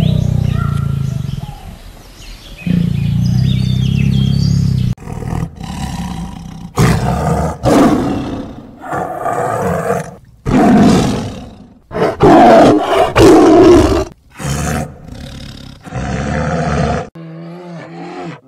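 Big cats roaring and growling in a string of separate clips joined with abrupt cuts: a low continuous growl for the first few seconds, then a run of short, loud roars.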